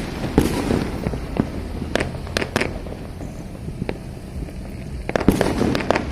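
Many fireworks going off across a city: scattered sharp bangs and crackles from different distances, with a thicker cluster of bangs about five seconds in.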